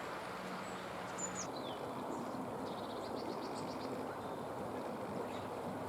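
Steady background rush with faint, high, thin bird calls over it: a short note that glides downward about a second and a half in, then a quick run of ticking notes around three seconds in.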